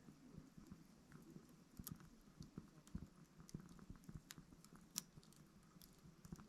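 Small wood fire burning in a VARGO titanium hexagon wood stove: faint, irregular crackles and pops over a low flutter of flame, with a sharper pop about five seconds in.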